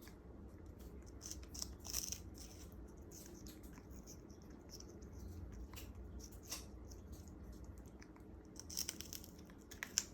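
African grey parrot biting and tearing into sugarcane: irregular crunches and crackles, with a few louder snaps about two seconds in and near the end.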